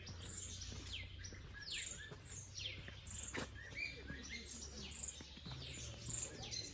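Many small birds chirping together: short, high notes that sweep down in pitch, several a second, overlapping throughout, over a low steady hum.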